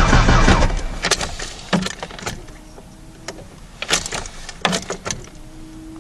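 A Ford Ranger's starter cranking a cold engine that does not catch, stopping about a second in. Several sharp clicks and two short, quiet hums follow.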